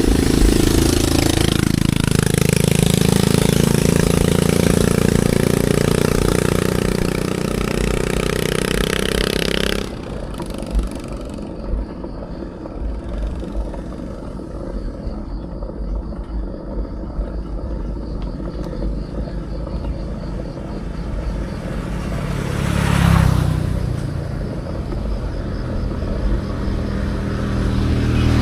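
Wind rumbling on an action camera's microphone during a bicycle ride, with a motor vehicle's engine running close by for the first ten seconds before it cuts off abruptly. A vehicle sweeps past briefly about two-thirds of the way in.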